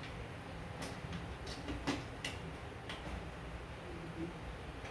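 Faint, scattered light clicks and ticks, about half a dozen spread irregularly, over a low steady hum.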